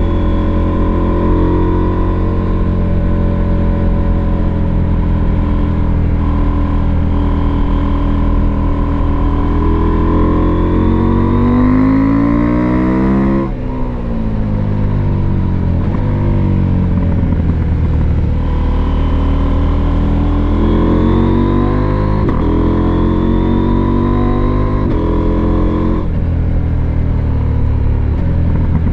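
Husqvarna Norden 901's parallel-twin engine running under way, revs climbing for a few seconds, then a brief break about halfway through followed by revs falling away, and climbing again later.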